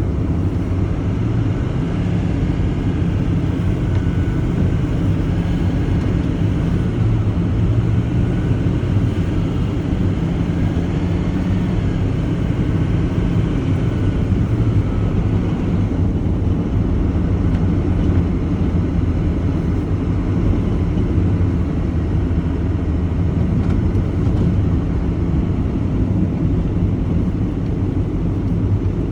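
Truck engine running steadily, an even low drone with no breaks, with a faint whine that rises and falls in pitch during the first half.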